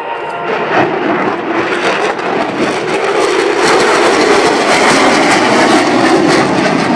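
McDonnell Douglas F-15 Eagle's twin jet engines during a fast pass, the noise growing louder over the first few seconds and staying loud, with a ragged crackle through it.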